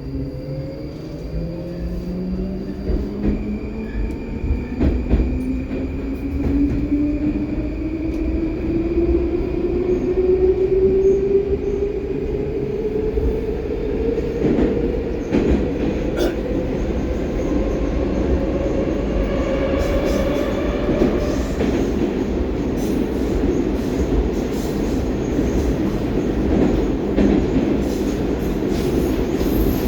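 Baltiets metro train accelerating through the tunnel: its traction motors whine, rising steadily in pitch for about twenty seconds. After that the train runs at speed with a steady rumble of wheels on rails.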